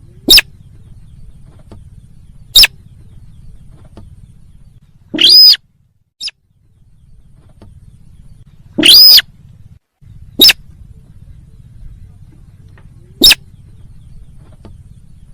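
Sintar bird lure call recording: loud, sharp single call notes a few seconds apart. Four are short, clipped chips, and two are longer calls that rise and fall in pitch, over a faint low hum.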